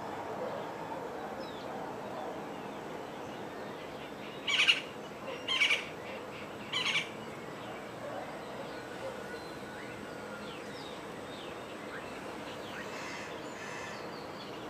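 Wild birds calling: three loud, harsh calls about a second apart near the middle, over a steady background of many faint chirps, with two fainter calls near the end.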